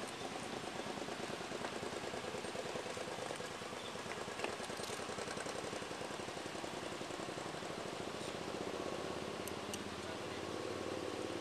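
Vehicle engine idling steadily, heard from inside the police car's cab, with one short click about four and a half seconds in.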